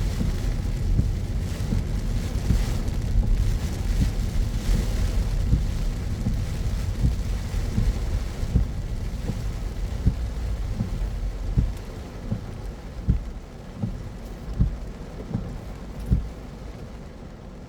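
A car driving on a rain-wet road: a steady low rumble of tyres and road under a hiss of rain. The rumble fades through the second half as the car slows, and near the end regular low thumps come about every three quarters of a second.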